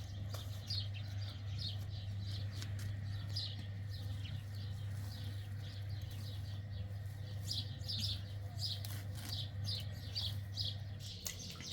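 Small birds chirping over and over, each chirp a short, quick note falling in pitch, with a steady low hum underneath.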